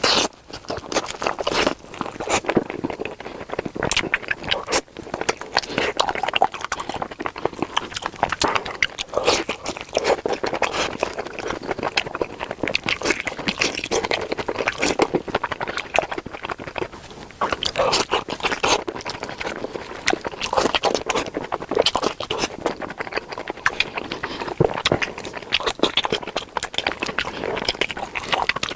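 Close-miked chewing and biting of a chicken leg: a steady, irregular run of wet mouth clicks and crunches.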